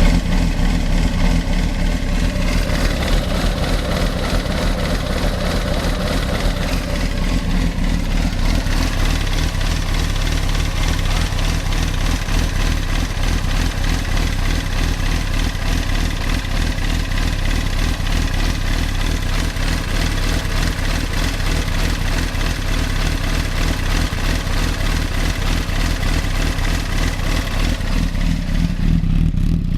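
Honda CB360T's air-cooled parallel-twin engine idling steadily, freshly tuned up with points, ignition timing and valve clearances set.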